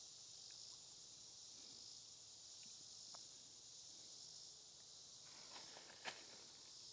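Faint, steady high-pitched chorus of insects in summer woods, with a single small click about six seconds in.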